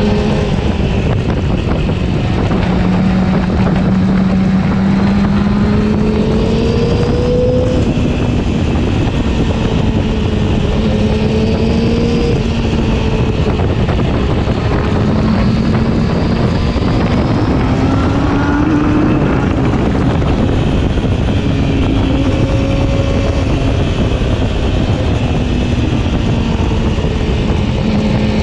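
Yamaha R6's inline-four engine running while the bike is ridden, its note climbing and falling several times with the throttle, over heavy wind rush on the microphone.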